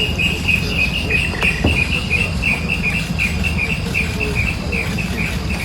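An insect, cricket-like, chirping in a steady, even rhythm of about four high chirps a second, over a low rumble.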